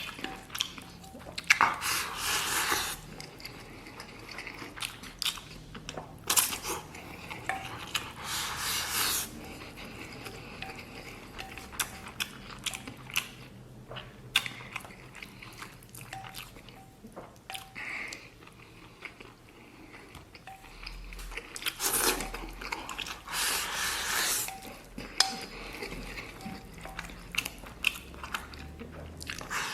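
Close-miked eating of braised beef and rice: chewing and biting, with scattered clicks of utensils against the bowl and a few louder stretches of mouth noise lasting a second or two.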